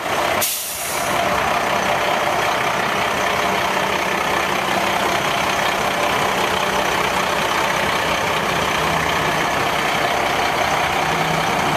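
Diesel engine of a 1994 Ford L8000 truck, an 8.3 litre Cummins, idling steadily. A brief sharp noise about half a second in.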